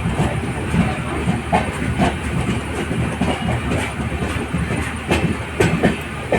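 Running noise of an LHB passenger coach on the move: a steady rumble and hiss from wheels on rail, with a few sharp clicks and knocks scattered through it.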